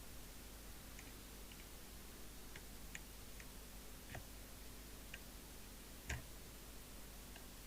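Sparse small clicks and light taps at irregular intervals, roughly one a second, with one louder knock about six seconds in, over a faint steady mains hum.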